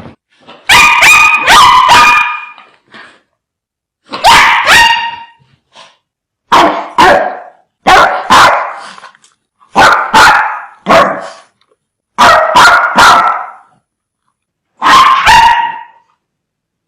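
Dogs barking fiercely in short volleys of two or three barks, about every two seconds, with complete silence between volleys.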